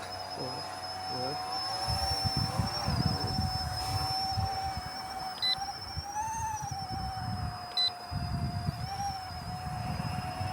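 Electric motor and rotor whine of an Era C123 (EC135-style) micro RC helicopter in flight. It holds a steady pitch that rises and falls briefly with throttle, about six seconds in and again near nine seconds. Short high beeps sound twice.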